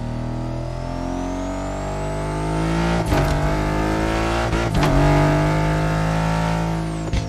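Aston Martin Vantage engine at full throttle, its note climbing as the car accelerates hard. Sharp cracks break it about three seconds in, about five seconds in, and again near the end, as at upshifts.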